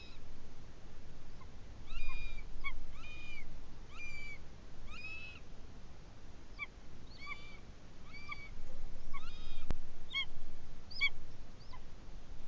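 A bird giving a series of short pitched calls, about one a second, with a single sharp click near the end.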